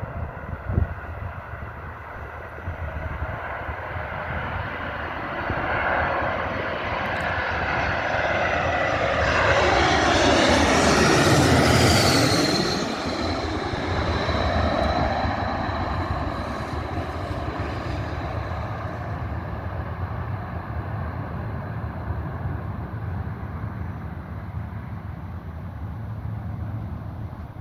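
Arriving airliner passing low overhead on its landing approach. The engine noise builds to its loudest about twelve seconds in, where a high whine drops sharply in pitch as the plane goes by, then fades to a steady rumble.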